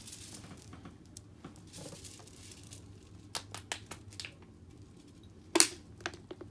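Water being poured into a small plastic mini washing machine, heard as two short stretches of hiss, followed by scattered light plastic clicks and knocks, with one louder knock near the end.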